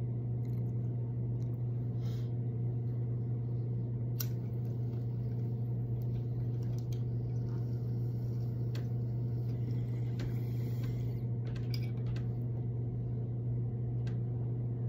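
A steady low hum runs throughout, with a few faint clicks and taps scattered over it.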